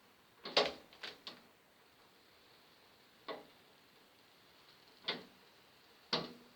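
Protective plastic film being peeled off a 1mm aluminium sheet panel, giving irregular short crackles and clicks: three close together in the first second and a half, then one every second or two.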